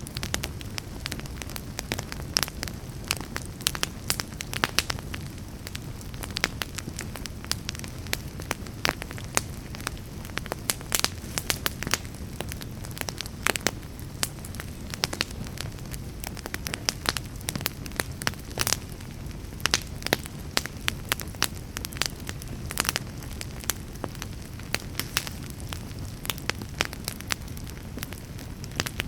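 Wood fire burning in a fireplace, with frequent irregular pops and crackles over a steady low rumble of flame.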